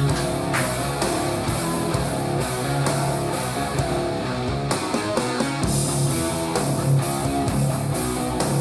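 Guitar-driven rock music played back through a small desktop studio monitor and recorded in the room.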